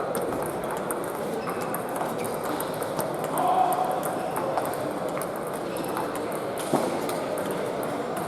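Celluloid-type table tennis balls clicking off bats and tables, many small pings from rallies on several tables at once, over a low murmur of voices. One louder knock comes about seven seconds in.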